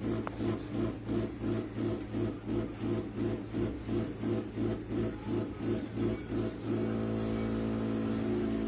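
Espresso machine pump running: a steady low hum with a pulsing about three times a second, which settles into an even hum near the end.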